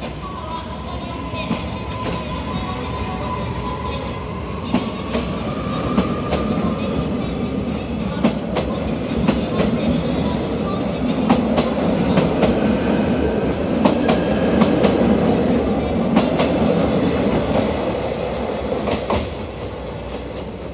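Electric commuter train pulling out of the platform and gathering speed past: a motor whine that rises slightly in pitch at first, then the rumble of the passing cars with repeated wheel clacks over rail joints, loudest in the middle and fading near the end.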